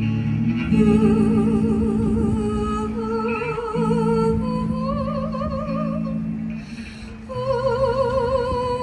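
Live band music: a woman's wordless singing in long held notes with a wide vibrato, stepping upward in pitch, over steady guitar and bass chords. The music thins briefly about seven seconds in, then the held vocal notes return.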